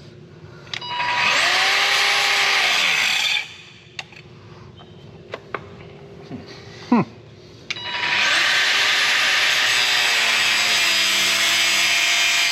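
A power cutting tool spins up and cuts through a hydraulic hose in two runs: the first for about two and a half seconds from a second in, then winding down. It starts again about eight seconds in and keeps cutting. In the quieter gap between the runs there are a few knocks.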